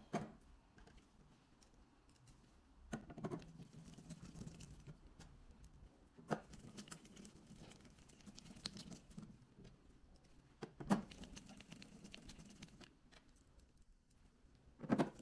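Small screws being driven into a spectrophotometer's plastic cover plate with a screwdriver: a faint scraping and ticking as the screws turn, with a few sharp clicks of the tool and plate being handled.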